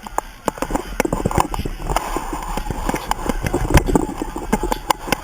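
A moshing crowd jumping and stomping on wet ground: many irregular sharp knocks and splashes of feet, with voices in the background.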